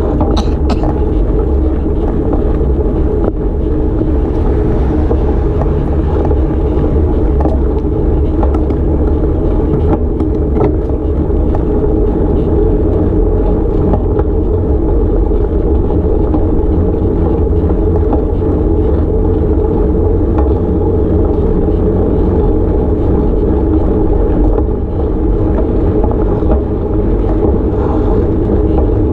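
Steady rumble of a motor vehicle's engine running at an even speed, with a constant low drone.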